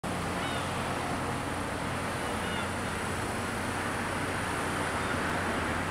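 Echizen Railway electric train drawing slowly into a station, its running gear and motors giving a steady low hum.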